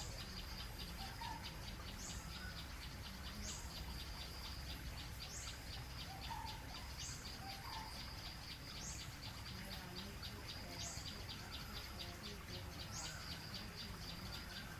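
Outdoor wildlife ambience: a steady, fast-pulsing high insect trill, with a short rising chirp repeated every one and a half to two seconds and a few scattered bird calls.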